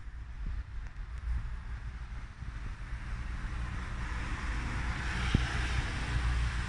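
Wind buffeting the microphone, a heavy uneven rumble, with a rushing hiss that swells about four seconds in.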